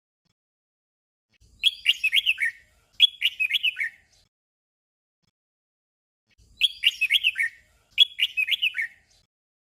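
Red-whiskered bulbul singing a short, simple phrase of quick falling whistled notes. The phrase is sung twice in quick succession, and the doubled phrase comes again about five seconds later.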